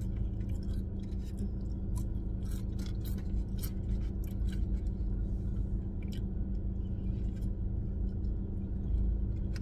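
Close-up eating sounds: chewing fries and then biting into a hamburger, with scattered short clicks and smacks. Under them runs a steady low hum inside a car.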